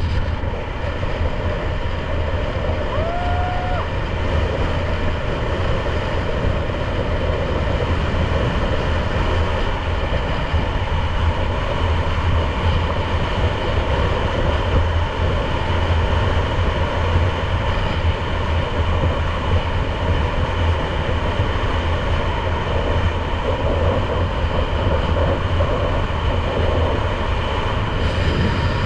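Motorcycle engine running steadily at cruising speed, with road and wind noise, while being ridden. A brief higher tone sounds about three seconds in.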